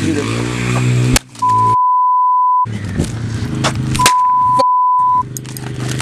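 Two censor bleeps, steady pure tones each about a second long, over a steady low engine hum with a few sharp clicks.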